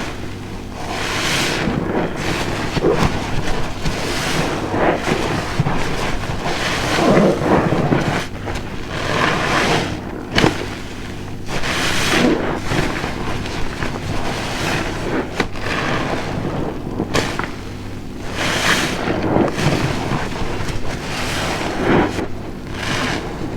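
A large car-wash sponge soaked with dish soap being squeezed and released over and over, giving wet squelching and foamy crackle that swells every second or two, with a few sharp clicks.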